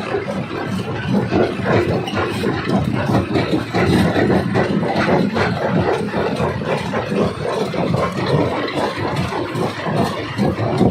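Quarry rock crusher running under load: a steady machine rumble with dense, irregular knocks and clatter of stone being broken.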